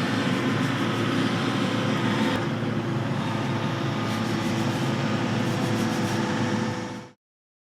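Heavy construction machinery engine running steadily with a rumbling mechanical din, cutting off suddenly about seven seconds in.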